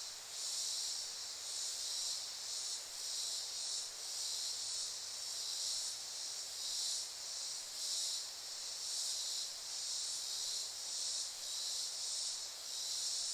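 Insects singing in a dense, continuous high-pitched chorus that swells and fades about once a second.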